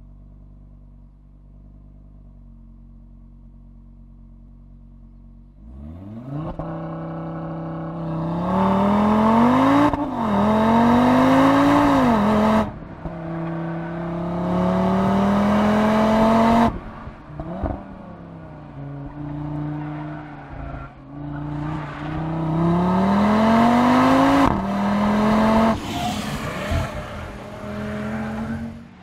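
Audi RS3's turbocharged 2.5-litre five-cylinder engine running at a low steady note, then about six seconds in revving up and accelerating hard through the gears, the pitch climbing in each gear and falling back at each upshift, with a few abrupt breaks in the sound.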